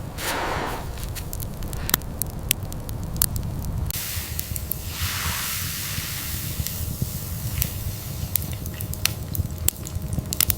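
Irregular sharp crackles over a steady low rumble, with two swelling rushes of hiss, one right at the start and one about five seconds in.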